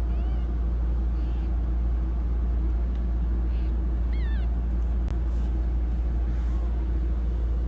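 Newborn kittens mewing: two short, thin, high-pitched squeaks, one just after the start and a clearer one about four seconds in, over a steady low hum.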